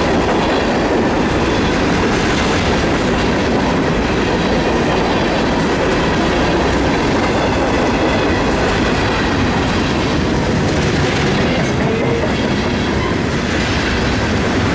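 Union Pacific freight train's cars, mostly covered hoppers, rolling past: a loud, steady rumble of steel wheels on rail, with a few light clicks here and there.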